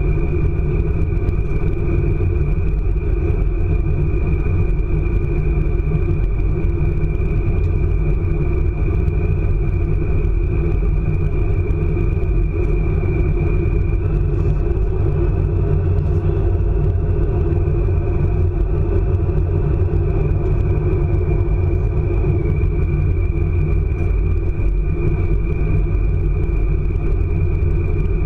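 ICE high-speed train running at speed: a steady deep rumble with a constant high whine over it, unbroken throughout.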